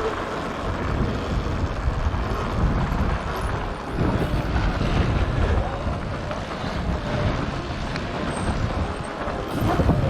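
Wind buffeting the camera microphone over the rattle and rumble of an electric Sur-Ron dirt bike riding across rough, rocky ground, with no engine note.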